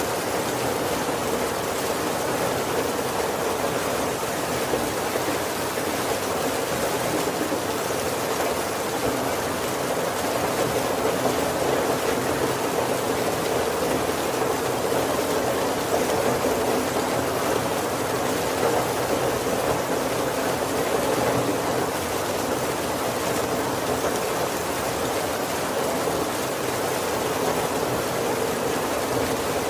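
Heavy rain falling steadily on the roof and windows of a wooden carriage, heard from inside: an even, unbroken patter with no thunder.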